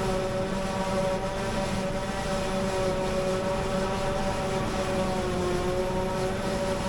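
Claas Jaguar 870 forage harvester at work cutting grass silage: its heavy diesel engine and chopping machinery run steadily with a strong whine that wavers slightly in pitch over a deep rumble.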